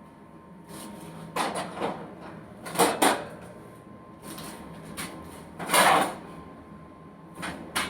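Handling noises from cleaning out a mouse enclosure: four short scraping, rustling bursts, the loudest about three seconds in and again near six seconds, over a faint steady hum.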